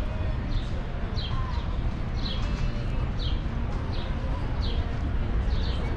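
A bird repeats a short, high, falling chirp about once a second, over a steady low outdoor rumble.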